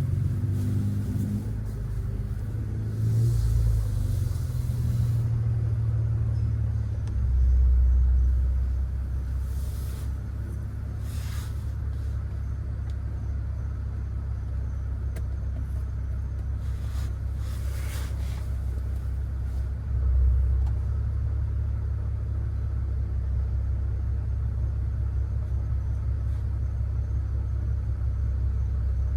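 Catless, straight-piped BMW 540i's B58 turbocharged inline-six exhaust, rumbling steadily at idle and low speed. It swells briefly a few times, around three and eight seconds in and again near twenty seconds.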